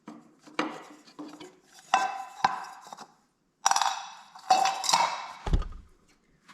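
Metal air cleaner cover on a Kohler K241 engine clanking and rattling as it is pulled off and handled: a series of ringing metallic knocks and clinks, with a dull thump near the end.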